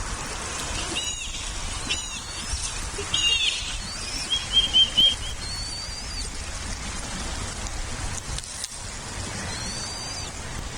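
Bird chirping in short, high calls: a few single chirps, then a quick run of four notes a little before halfway, which is the loudest part, and later two more calls that rise and fall, all over a steady background hiss.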